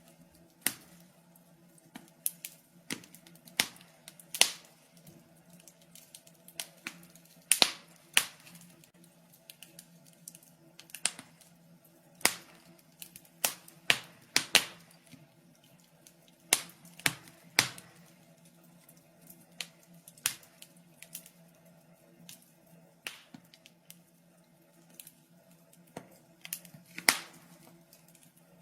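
Fire in a fireplace crackling: irregular sharp pops and snaps, one or two a second, some louder than others, over a faint steady low hum.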